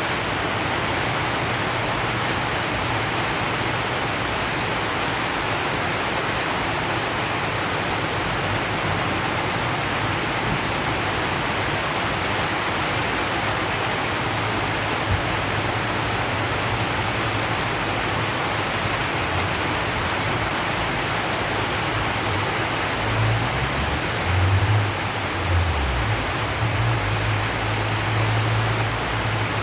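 Steady rain on a zinc sheet roof, an even hiss throughout. A few low rumbles come near the end.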